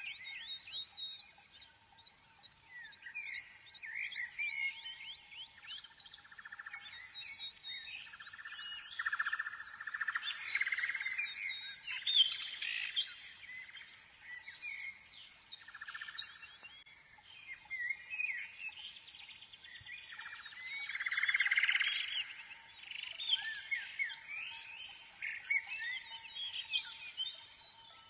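Birds chirping and singing, many quick overlapping calls that swell into busier flurries twice, over a faint steady tone.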